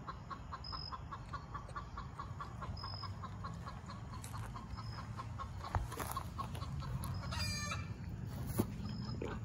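A bird calling in a steady series of short chirps, about four a second, that stops about seven seconds in. A higher, rising call follows, with a couple of sharp knocks.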